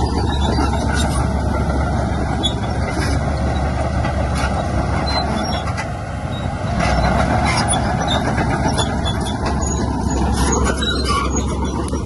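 Heavy diesel earthmoving machinery running steadily under load, with scattered clanks and clicks, easing briefly about six seconds in.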